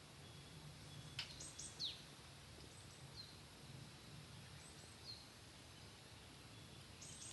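Faint outdoor ambience: birds giving short, high chirps that fall in pitch, a few times over several seconds, with one sharp pop about a second in.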